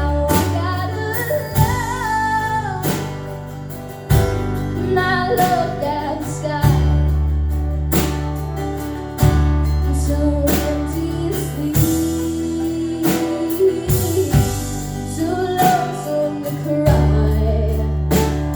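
Live acoustic string band playing a slow, sad song: plucked guitar strokes and deep bass notes under a gliding lead melody line.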